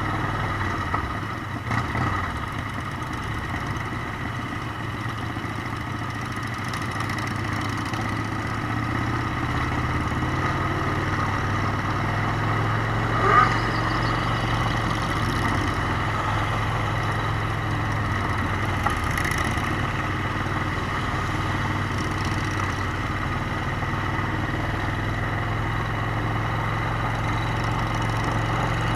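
Motorcycle engine running steadily, with one short sharp sound a little after halfway.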